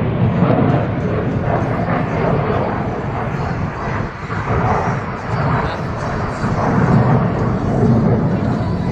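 Jet noise from the Thunderbirds' F-16 fighter jets in flight, a steady rushing sound, with voices in the crowd.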